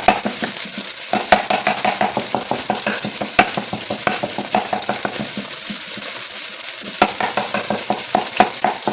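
Egg frying in hot oil with a steady sizzle, while a wooden spatula scrapes and taps the pan to break the egg into small pieces, with a few sharper knocks.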